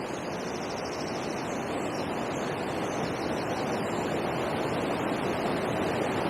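Steady rush of water pouring over a river weir, an even, unbroken noise that grows slowly louder.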